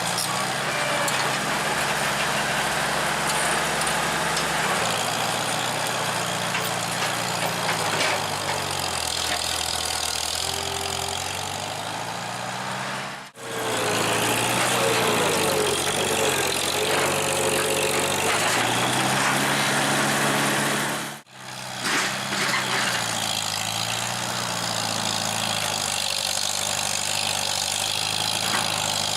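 1949 International W4 tractor's four-cylinder engine running under load, its pitch rising and falling as it works. The sound breaks off sharply twice, about 13 and 21 seconds in.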